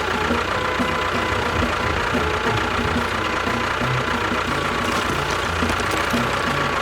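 A small engine or motor running steadily at an even pace, with a rough low pulsing under it.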